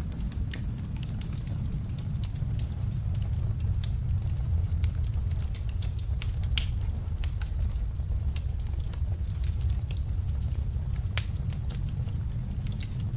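Wood fire crackling in a fireplace, with scattered sharp pops (one louder snap about halfway through), over a steady low rumble of snowstorm wind.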